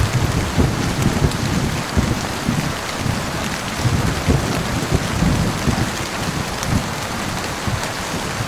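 Heavy rain falling steadily, with a low, rolling rumble of thunder that swells and fades throughout.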